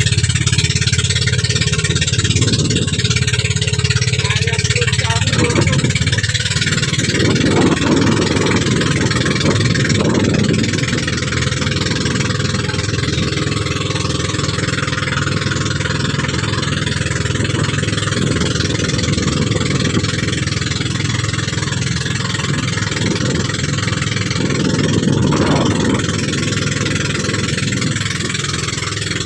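Motorboat engine running steadily under way, with a constant rush of wind and water over it and a few louder swells of rushing noise.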